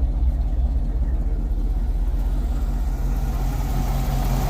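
1978 Chevy C10 pickup's engine idling steadily just after a restart, running on a freshly rebuilt carburettor after sitting for years. About three seconds in, a hiss in the higher range grows while the idle holds steady.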